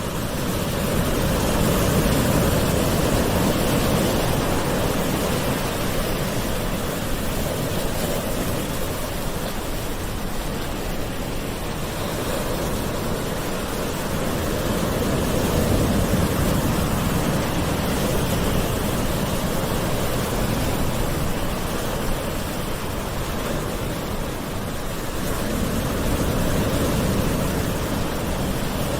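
Gentle waves washing in a continuous hiss of surf, swelling and easing slowly with a peak every ten seconds or so.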